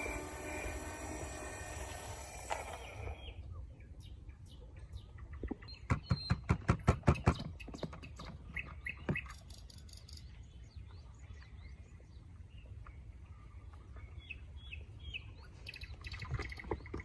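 Birds chirping, with short high calls scattered throughout. Halfway through comes a quick run of about ten loud, sharp clicks, the loudest sound here, over a steady low rumble.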